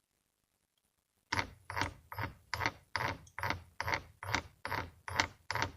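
139FMB moped electric starter motor and its reduction gear, run on a bench power supply, turning in jerks with a short clatter about two and a half times a second, starting a little over a second in. The power supply cannot give it enough current to spin smoothly.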